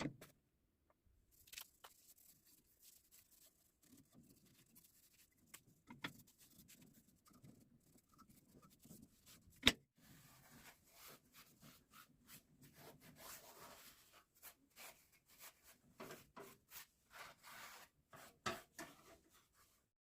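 Faint rubbing and scraping with scattered small clicks, and one sharper click nearly halfway through.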